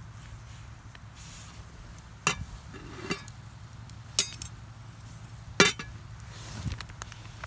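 Hard objects clinking and knocking together: three sharp clinks a couple of seconds apart, the middle one with a short rattle, and a softer knock between the first two.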